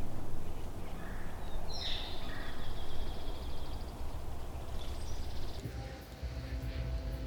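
Spring woodland ambience: small birds chirping, with a sustained high trill about two seconds in, over a steady low rumble. Guitar music comes in near the end.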